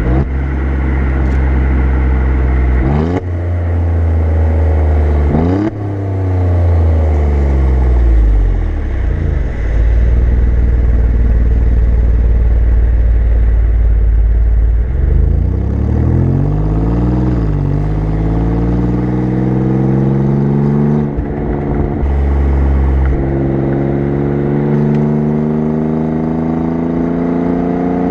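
Alfa Romeo Giulia Quadrifoglio's twin-turbo V6 exhaust heard from the rear bumper as the car drives. The engine pitch shoots up sharply twice in the first few seconds, falls away, climbs again about halfway through, and rises slowly near the end, over a heavy low rumble of wind and road noise.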